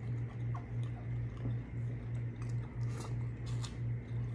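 Close-up eating sounds: biting and chewing crispy battered fried fish and shrimp, with short crisp crunches now and then. A low hum that swells and fades about twice a second runs underneath and is louder than the eating.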